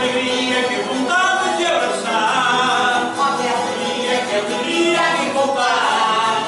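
A group of voices singing together in chorus, continuous throughout.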